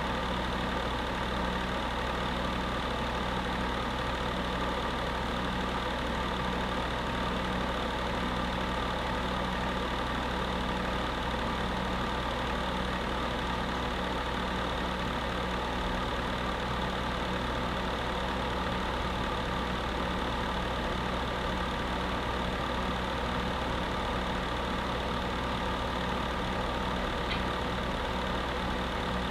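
Electric space heater running steadily, a constant whir over a low hum.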